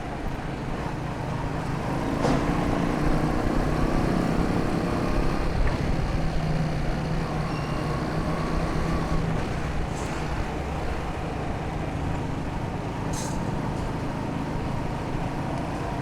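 Motorcycle engine running while riding through street traffic, a little louder for a stretch near the start, with a few short sharp clicks along the way.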